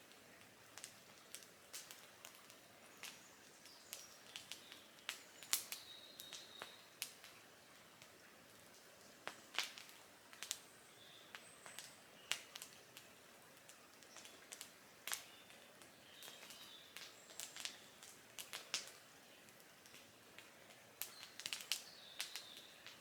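Campfire crackling: irregular sharp pops and snaps from burning wood, with a few faint short high chirps in between.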